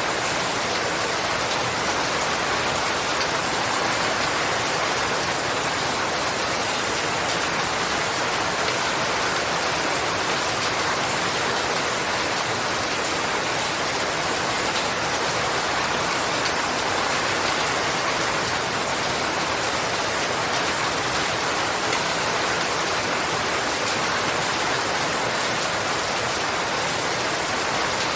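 Steady rainfall: an even, unbroken hiss of rain on surfaces, with no single drops, thunder or changes standing out.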